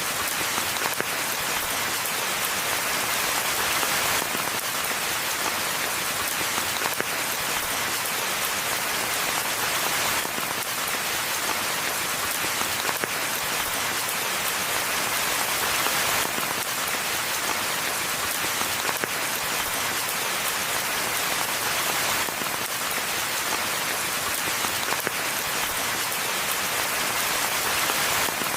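Steady rain falling, a dense even hiss of countless drops pattering on the ground and foliage.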